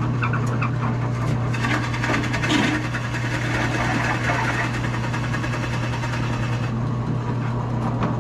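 A power tool's motor running steadily while its bit cuts down into the wood of a guitar body, hollowing out a cavity.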